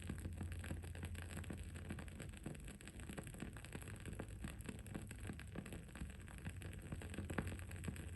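Wooden candle wick crackling: a quick, irregular run of small pops and ticks, one louder pop near the end, over a steady low background hum.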